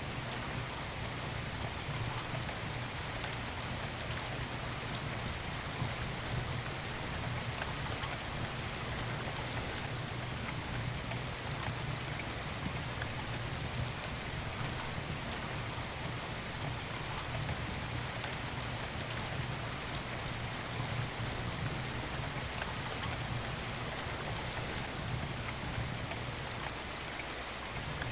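Steady rain falling, an even hiss with a few faint sharp clicks scattered through it.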